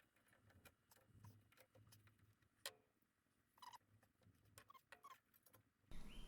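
Near silence broken by a few faint, scattered clicks and taps, small metal parts being handled as the parking brake cable is hooked onto the rear brake caliper. A louder clatter starts right at the end.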